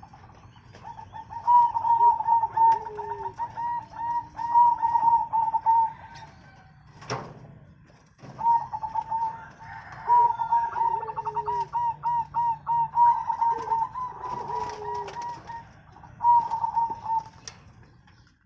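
Zebra doves (perkutut) cooing: fast runs of short, repeated high coo notes in two long phrases with a pause between them, and a few lower coos beneath. A single sharp knock about seven seconds in.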